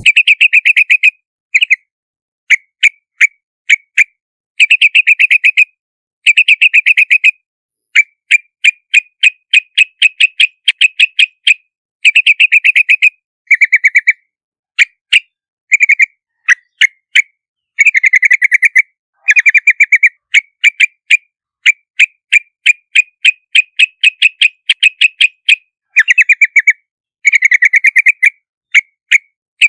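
Yellow-vented bulbul calling: rapid runs of short, bright chattering notes in bursts of a second or two, separated by brief pauses.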